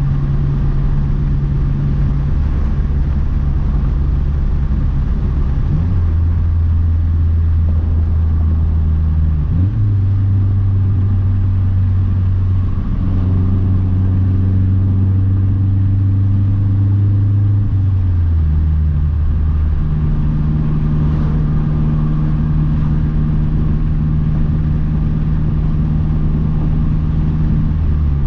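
Big-turbo 2012 Mazdaspeed 3's turbocharged 2.3-litre four-cylinder engine running at a steady cruise. Its drone holds a pitch, then shifts up or down in steps several times.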